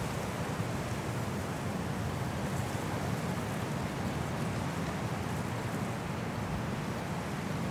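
High wind blowing through forest trees in a snowstorm, a steady rush of noise with no lulls.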